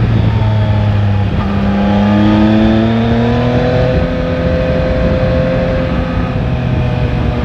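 Yamaha Tracer 9 GT motorcycle's inline-three engine under way. Its pitch breaks about a second in, climbs over the next couple of seconds as it accelerates, then holds steady.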